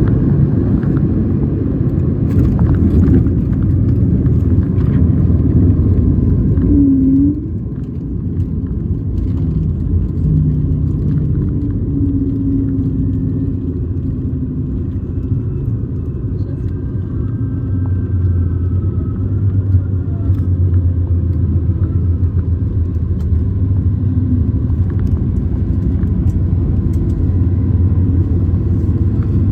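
Cabin noise of an Airbus A220-300 landing: a loud low rumble from its Pratt & Whitney PW1500G geared turbofans and the airframe. The rumble drops suddenly about seven seconds in and settles into a steadier lower drone.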